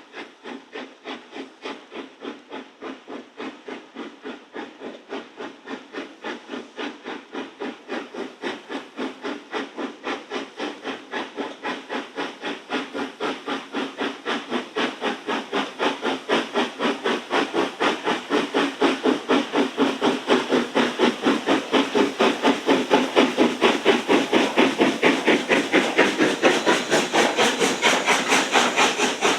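Steam locomotive working hard, its exhaust beating from the chimney in a rapid, even rhythm of hissing chuffs that grows steadily louder.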